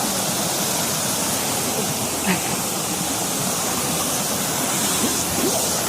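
Waterfall: the steady rush of falling water, with faint voices far behind it.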